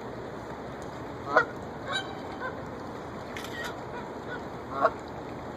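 Geese honking: two loud honks, about a second and a half in and near the end, with a few fainter calls between, over a steady background hiss.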